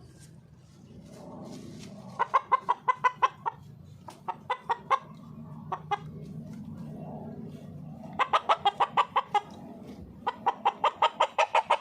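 A rooster clucking in four quick bouts of sharp, rapid clucks, about seven a second, the agitated clucking of a displeased bird.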